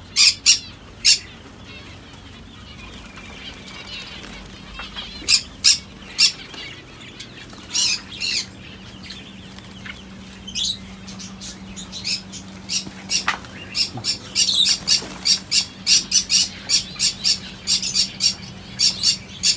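Caged lovebirds giving short, shrill calls: a few scattered chirps at first, then a rapid run of several calls a second through the second half.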